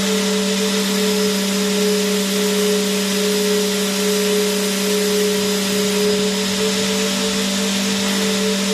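Vacuum cleaner motor running steadily, a constant hum with a slightly wavering whine over an even rushing hiss.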